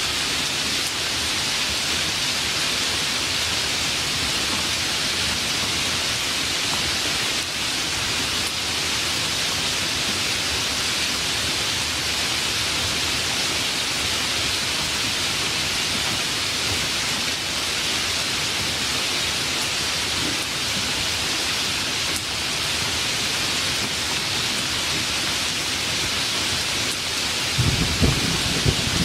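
Steady, even hiss of heavy rain, with a low rumble of thunder breaking in near the end.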